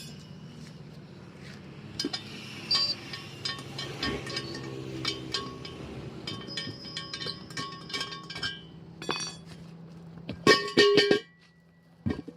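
Metal tools and steel parts clinking and knocking against each other, many irregular ringing strikes, the loudest cluster about ten seconds in, over a steady low hum.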